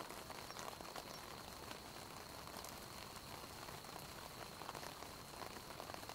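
Faint crackling and hissing of a wood campfire with a pot of udon simmering over it, with scattered small pops and a faint steady high tone behind.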